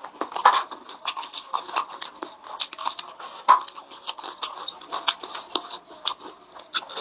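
Close-miked eating of chicken: biting and chewing, heard as many short, irregular crunches and mouth clicks.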